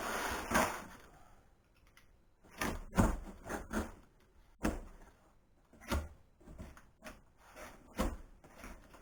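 A series of sharp clunks and knocks, about seven strong ones at irregular intervals, each with a short ringing tail, as metal parts are handled and knocked.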